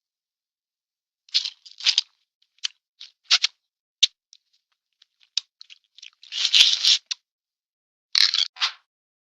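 Cartoon sound effects: a string of short, irregular scratchy crunching noises with silent gaps between them, and one longer burst about six and a half seconds in.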